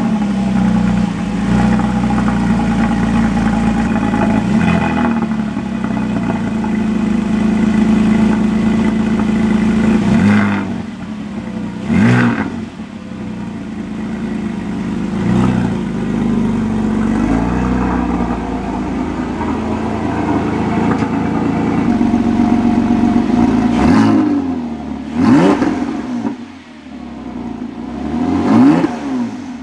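Porsche Cayman S 3.4-litre flat-six running through a Carnewal GT aftermarket exhaust, idling steadily just after starting. Short throttle blips about twelve and fifteen seconds in, and two quick revs near the end, each rising and falling back to idle.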